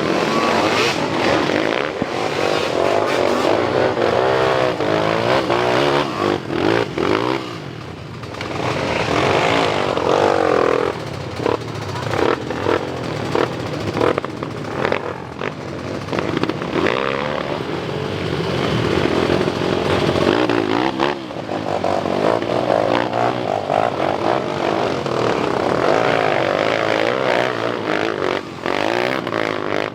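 Motocross bike engines revving hard on a steep climb, the pitch rising and falling again and again as riders work the throttle.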